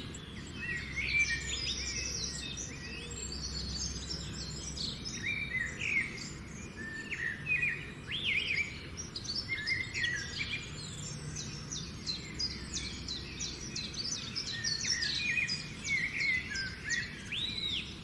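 Several birds calling and singing at once, with many short chirps, whistles and quick trills overlapping, over a steady low background hum.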